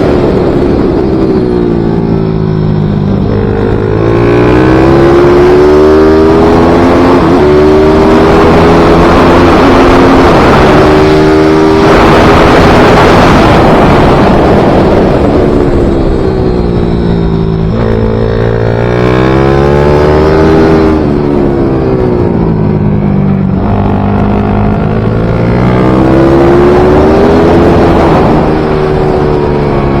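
The engine of a small racing motorcycle (a pit bike or MiniGP bike) running hard and loud. Its pitch repeatedly climbs as it accelerates, then drops back through gear changes and braking.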